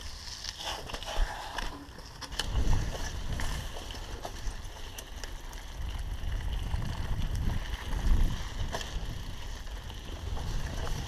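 Mountain bike riding down a dirt trail: wind buffeting the microphone over a low rumble of tyres on the ground, with scattered clicks and rattles as the bike goes over bumps.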